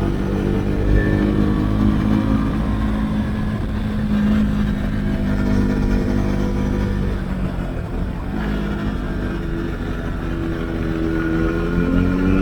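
Husqvarna Svartpilen 401's single-cylinder engine through an Akrapovic exhaust with the dB-killer removed, pulling under acceleration. The pitch climbs, dips briefly about eight seconds in, then climbs again.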